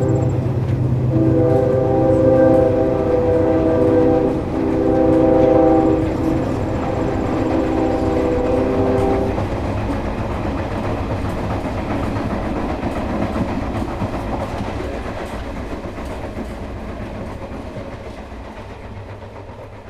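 Train horn sounding several long blasts, followed by a train rumbling and clattering along the tracks, slowly fading away.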